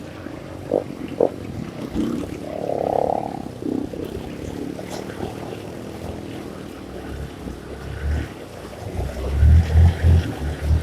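Honda CRF150 dirt bike's single-cylinder four-stroke engine running at low revs, turning into loud, rapid low throbbing in the last two seconds.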